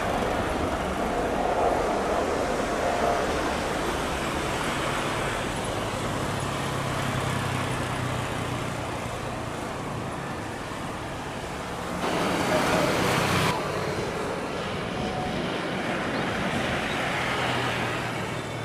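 Steady rumble of distant jet airliner engines mixed with road traffic noise. The sound changes abruptly twice, about twelve and thirteen and a half seconds in.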